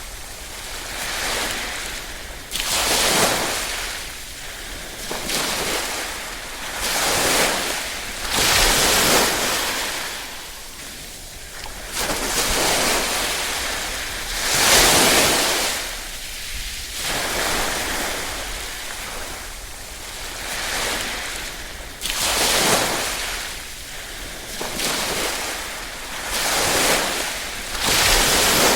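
Small waves (ripples) lapping on a shore, each one washing in and drawing back, one every two to three seconds, with the biggest wash about halfway through.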